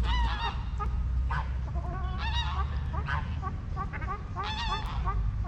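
Waterfowl calling: a run of short, repeated honking calls, several close together around the middle, over a steady low rumble.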